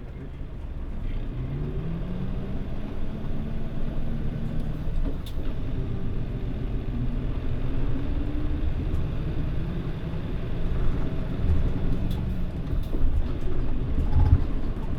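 Mitsubishi Fuso Aero Star city bus pulling away and accelerating, its engine note rising through the gears twice, then running steadily before easing off near the end, over a steady road rumble.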